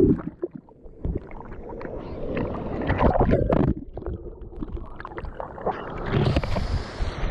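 Water sloshing and splashing close to the microphone, with uneven gurgling surges. About six seconds in, a brighter hiss of rushing water rises.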